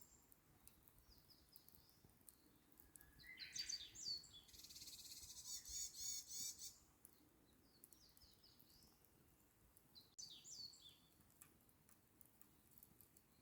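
Wild songbirds singing and chirping, with a long rapid high trill from about four to seven seconds in and shorter calls later, over faint scattered crackles from a campfire.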